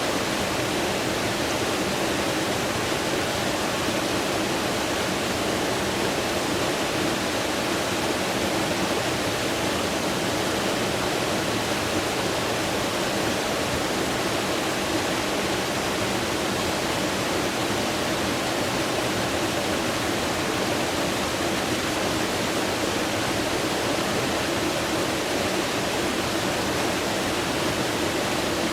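Rushing water running steadily, an even unbroken noise with no change.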